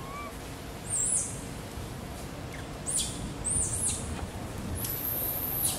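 High, thin whistled bird calls over a steady background hiss: two short notes about a second in, a sharply falling note around the middle, and one long high note near the end that drops away at its close.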